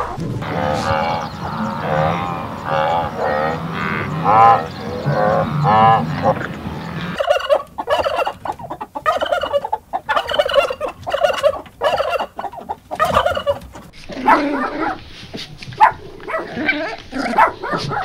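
A run of animal calls. For the first seven seconds there is a series of repeated pitched calls over a low hum. Then turkeys gobble and cluck in quick, dense bursts. From about fourteen seconds in, a puppy gives short yelping barks.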